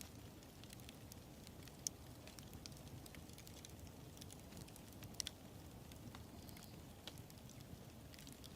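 Wood fire crackling faintly: a low steady rumble of burning with scattered small ticks and pops, and two sharper pops about two seconds and five seconds in.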